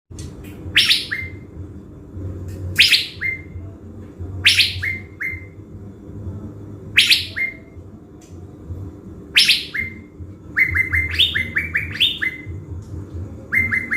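Caged thanh lam songbird in full form as a decoy bird, calling: a sharp downward-sweeping note followed by one to three short clipped notes, repeated about every two seconds, breaking into a quicker run of short notes in the last few seconds.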